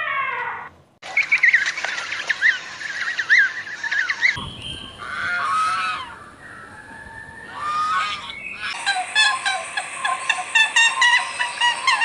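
A string of edited animal-sound clips, mostly birds. A falling call ends within the first second. Then small birds chirp for about three seconds. Waterfowl give spaced honking calls from about four to nine seconds in, and a flock of small birds or chicks chirps rapidly to the end.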